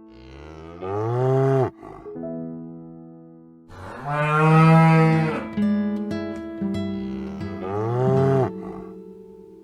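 Cow mooing three times, long calls with the middle one the loudest, over soft piano music.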